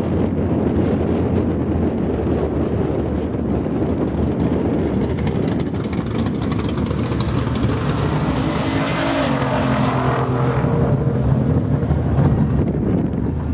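Drag-racing car launching and accelerating down the strip, its engine note building from about halfway through. A high whine comes in with the run and drops away a few seconds later. Wind buffets the microphone throughout.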